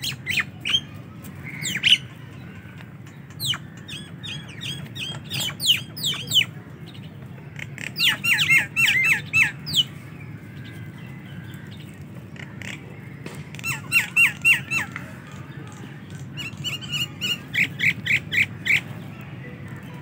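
Common mynas calling: several runs of quick, repeated falling notes, each run a second or two long and a few seconds apart.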